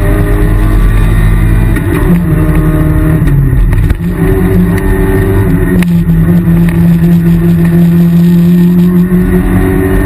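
Rally car engine running hard under load, heard from inside the cabin, its note shifting several times as the car drives the stage, with a brief dip in loudness about four seconds in.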